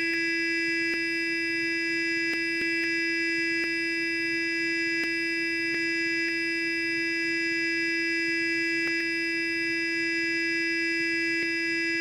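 Sonic toothbrush buzzing steadily at one constant pitch, with a few faint, irregular clicks.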